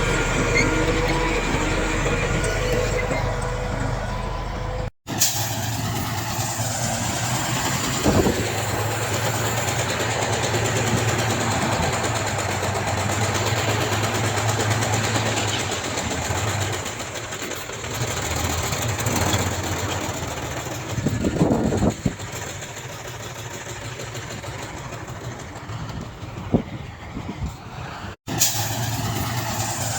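Heavy diesel engines of earthmoving machinery running steadily, with a few sharp knocks and clanks. The sound cuts out abruptly twice for a moment.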